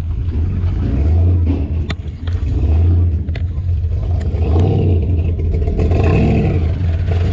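Pickup truck engine running loudly with a deep, steady rumble, swelling in level now and then as it is revved.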